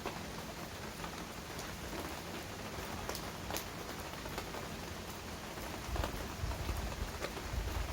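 Heavy rain falling steadily, with sharp drips striking close by. A low rumble comes in about six seconds in and grows louder.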